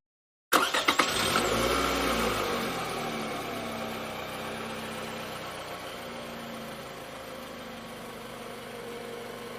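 Car engine starting about half a second in, with a brief rev, then settling into a steady idle.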